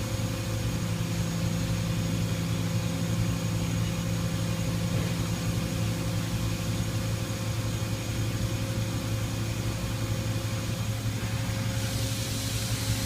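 Toyoda CNC horizontal milling machine running with a steady mechanical hum. One low tone in the hum stops about seven seconds in, and a hiss comes in near the end.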